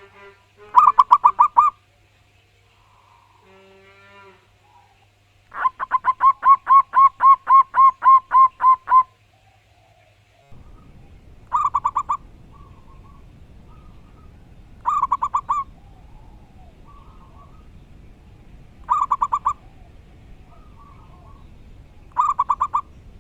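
Zebra doves (perkutut) cooing: rapid strings of pulsed coos. There is a short burst about a second in and a long run of about a dozen notes around the middle. After that come short bursts every three to four seconds, with softer calls between them over a steady background hiss.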